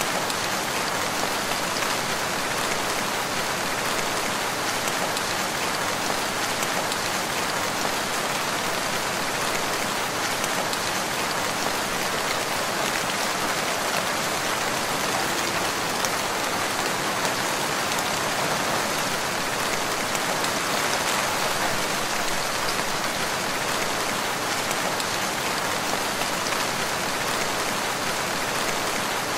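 Steady, even rainfall on a forest, with drops pattering on surfaces.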